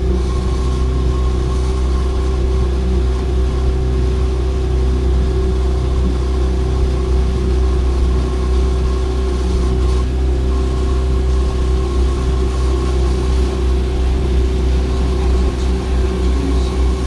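Ferry boat's engine running steadily: a low, even drone with a constant hum above it.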